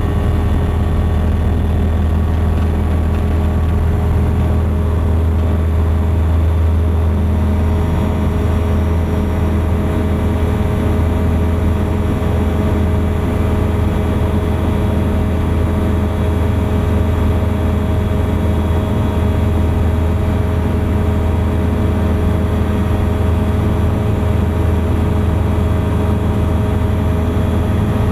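Thruster ultralight aircraft engine and propeller running steadily at a constant pitch: an even, unbroken drone.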